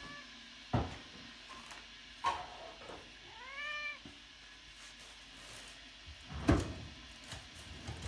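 Siberian cat meowing: a short meow at the start and a longer, rising-then-falling meow about three and a half seconds in. Several knocks and thumps in between, the loudest about six and a half seconds in.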